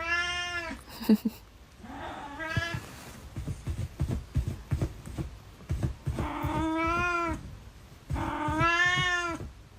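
Domestic cat yowling: four long, drawn-out meows, the last two the longest, with a few light knocks and taps between them.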